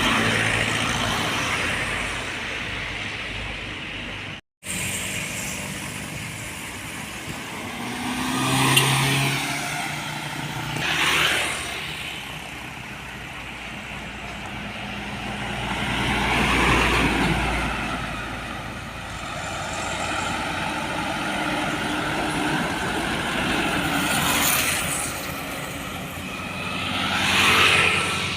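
Road traffic, trucks among it, passing one vehicle after another, each rising and fading as it goes by, about six passes in all. All sound cuts out briefly about four and a half seconds in.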